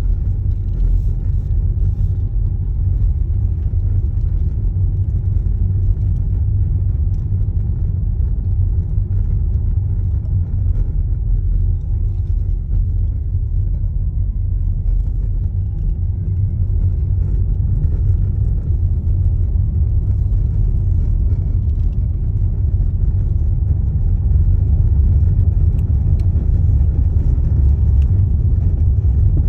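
Steady low road and tyre rumble of a TOGG T10X battery-electric SUV driving, with no engine sound over it.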